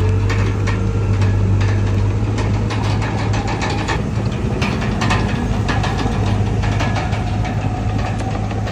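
Komatsu D31PX crawler bulldozer's diesel engine running steadily under a low hum, with frequent metallic clanks and rattles.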